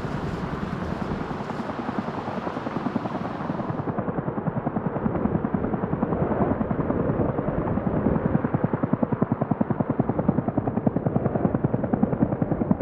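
Helicopter rotor chop: a fast, steady, even throbbing that sounds duller from about four seconds in.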